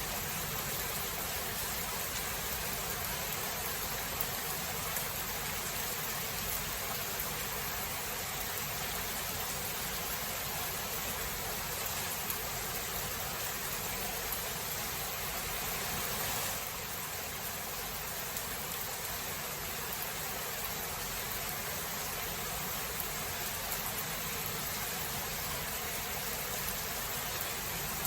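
Steady rain of a thunderstorm, an even hiss with no thunderclap, a little quieter from about sixteen seconds in.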